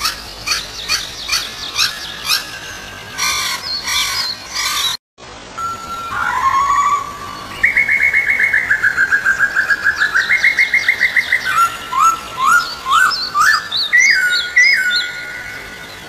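Bird chirps and whistles: quick falling chirps over the first few seconds, a brief cut to silence about five seconds in, then a long fast trill and a run of rising and falling whistled notes.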